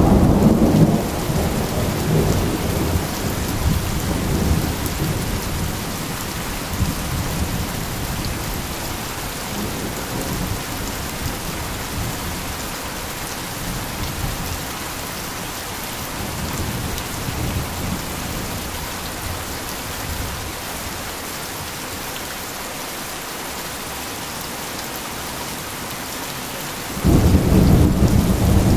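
Steady heavy rain with thunder. A thunder rumble at the start dies away over several seconds, and another loud rumble breaks in suddenly near the end.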